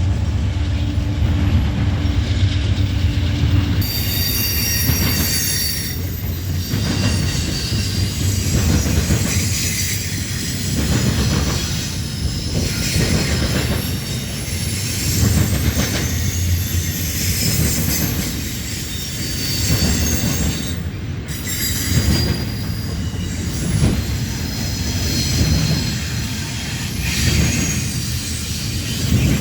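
Train rolling past with its wheels squealing on the rails in thin, high tones, over a low rumble that swells about every two seconds.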